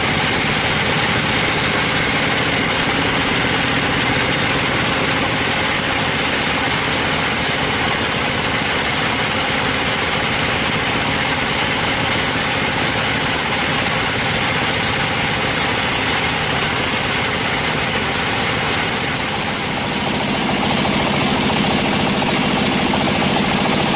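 Sawmill machinery running steadily: an engine drone under a loud hiss. About 20 seconds in, the sound dips briefly, then settles into a steadier, lower hum.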